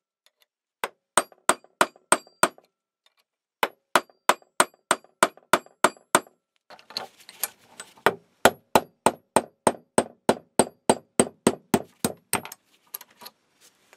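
Hammer blows driving the drilled-out stop pin out of a pre-war Heuer front vise's round bar, which rests on a steel V-block: a run of sharp metallic strikes, about three a second, with a pause a few seconds in.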